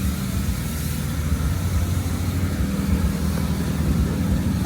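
Car engine idling with a steady low exhaust rumble.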